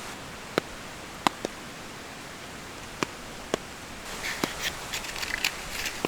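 Steady rain hiss with a few sharp, separate drops or ticks, then from about four seconds in a quick run of crackling and rustling close by.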